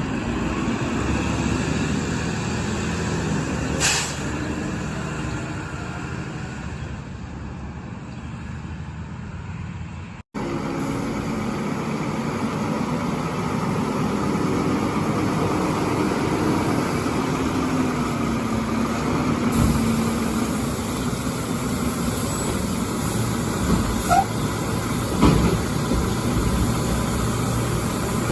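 Garbage truck engines running steadily, with a short sharp hiss about four seconds in and a few brief knocks near the end; the sound drops out for an instant about ten seconds in before another engine takes over.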